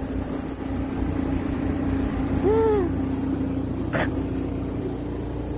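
Truck engine idling with a steady low hum. A short rising-and-falling vocal hum about two and a half seconds in, and a single sharp click about four seconds in.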